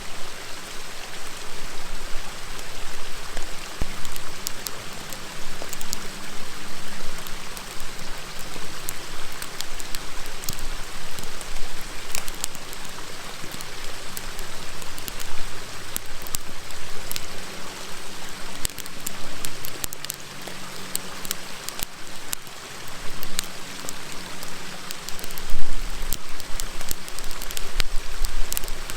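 Wood fire crackling with many small sharp pops, over the steady rush of a river. A brief low rumble near the end.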